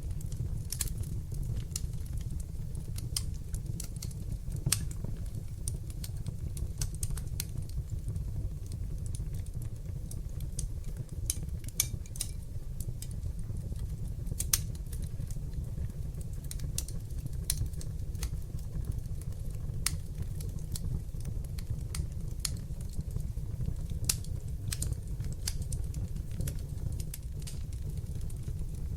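Wood fire burning in an open hearth: a steady low rumble of flames with irregular sharp crackles and pops from the burning logs, a few standing out louder than the rest.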